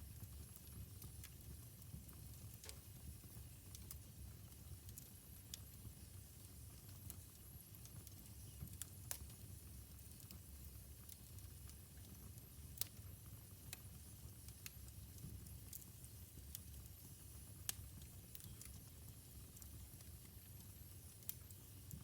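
Wood fire burning in a fireplace, crackling with irregular sharp pops and snaps over a low, soft rumble of the flames; two pops stand out, a little past halfway and about three-quarters through.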